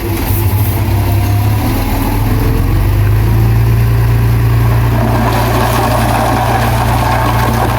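Diesel engine of heavy earthmoving machinery running steadily with a deep hum. About five seconds in, a rougher grinding noise joins it.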